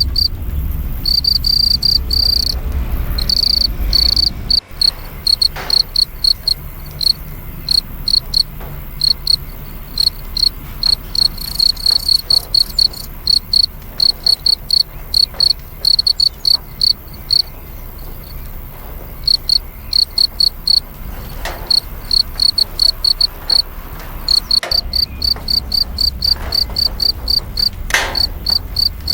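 Crickets chirping: a high, shrill trill of rapid pulses that runs in trains and stops and starts with short pauses. A low rumble sits underneath for the first few seconds and again near the end.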